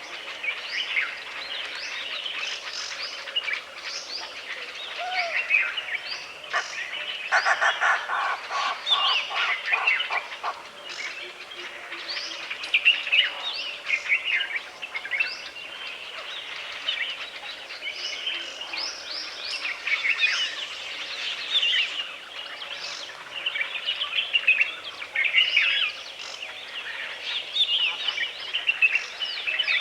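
Dry deciduous woodland dawn-chorus-like ambience: many birds chirping and trilling over one another. From about seven seconds in, for about three seconds, there is a fast rattling run of evenly spaced lower notes.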